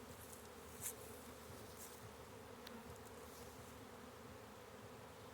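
Honey bee swarm buzzing: a faint, steady hum of many bees, with one light click about a second in.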